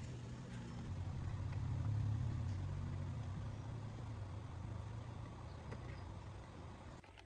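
A motor vehicle's engine running with a low rumble that swells about two seconds in, then fades and drops away near the end.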